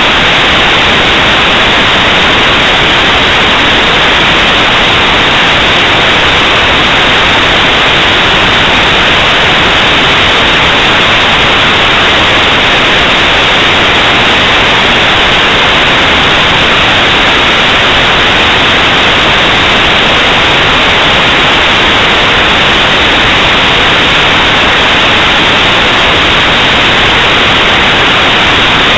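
Loud, steady hiss of static noise, unchanging and even, with no other sound heard over it.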